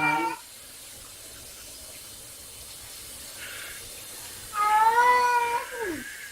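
Domestic cat meowing: a call that breaks off just after the start, then a long drawn-out meow about four and a half seconds in that slides down in pitch at its end, over a steady background hiss.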